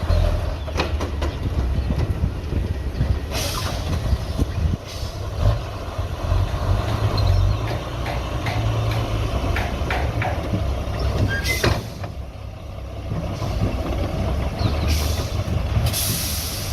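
Heavy diesel earthmoving machinery running with a steady low rumble, with scattered metallic clanks and knocks. There are two short hisses of air, one about three and a half seconds in and a longer one near the end.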